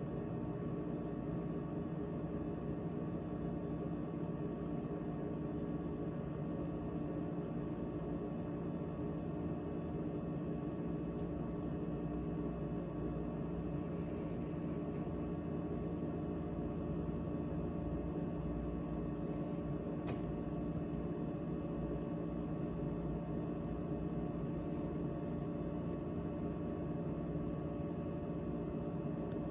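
GE GTH18XCTZRBB refrigerator running after its defrost (heat) cycle, a steady hum of compressor and fan with several steady tones. One faint tick comes about two-thirds of the way through.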